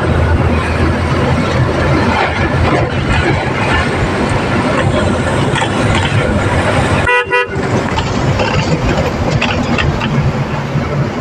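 Steady engine and road noise of a truck on the move, broken about seven seconds in by one short vehicle horn honk.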